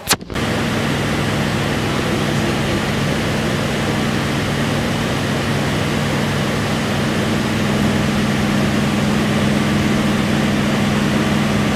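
Steady running noise of a passenger train heard from inside the carriage while it moves past the station, with a constant low hum under a broad rushing noise; it cuts in with a brief click.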